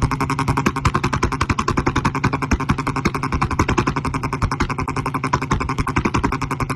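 Maruti 800's three-cylinder engine running through a modified exhaust, a loud, even, rapid train of exhaust pulses.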